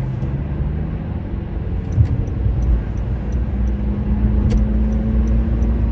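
Car driving at speed, heard from inside the cabin: a steady low road and engine rumble with a hum that steps up in pitch about four seconds in, and a single bump about two seconds in.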